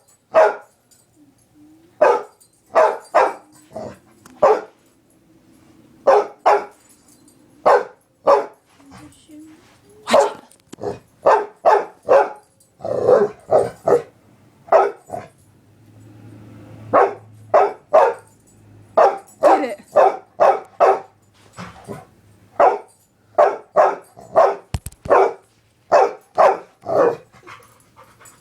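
A dog barking over and over in quick runs of two to five barks with short pauses, barking in fear at a trumpet.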